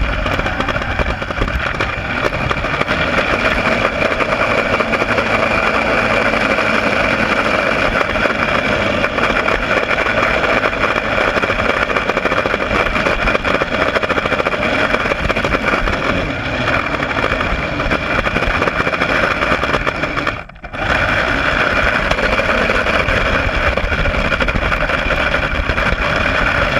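The Kyosho Blizzard RC snowcat's Traxxas 380 electric motors whine steadily under throttle, powered by a 3-cell LiPo. The sound drops out briefly about three-quarters of the way through, then picks up again.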